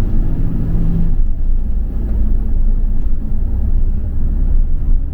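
Double-decker bus running along the road, heard from inside: a steady low rumble of engine and tyres. A humming note in the rumble stops about a second in.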